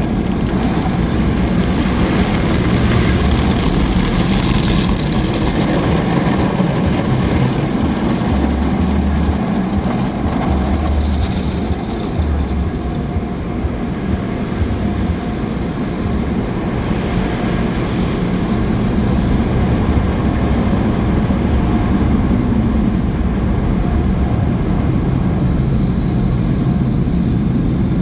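Automatic car wash machinery running: a steady loud rumble and hiss from the wash equipment, with the hiss swelling a few seconds in and again about two-thirds of the way through.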